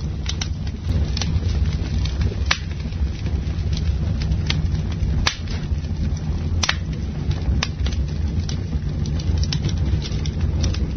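Campfire burning: wood crackling with scattered sharp pops, a few louder than the rest, over a steady low rumble.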